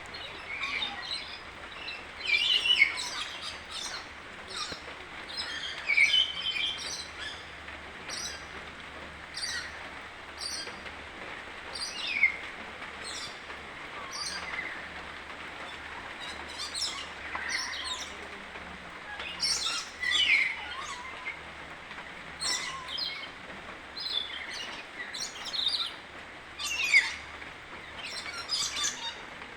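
Cassowary chick peeping: repeated short, high chirps, several of them sliding down in pitch, every second or so.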